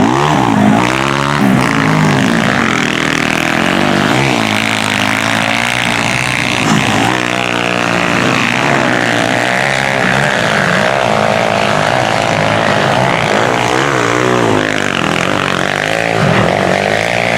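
Several motocross bikes racing, their engines revving up and down over and over as they go by.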